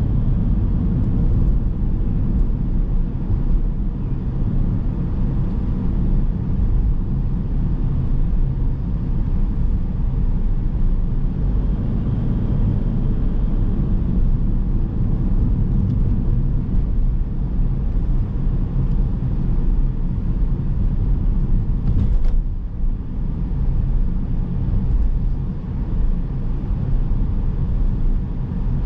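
Car driving on city roads: a steady low rumble of engine and tyre noise, with a brief sharp tick about three-quarters of the way through.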